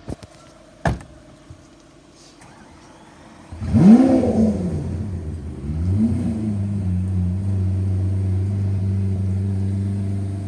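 Lamborghini Aventador's V12 engine cranking and firing about three and a half seconds in, flaring up in revs and falling back, then settling into a steady idle after a second smaller blip. A single sharp click comes about a second in.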